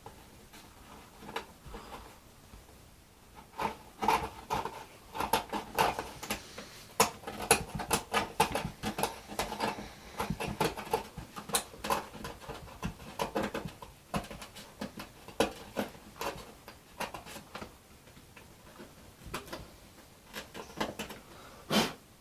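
Scraping and picking excess wood out of a hinge slot in a balsa control surface: irregular, rapid scratching and small clicks, starting a few seconds in and going on until near the end.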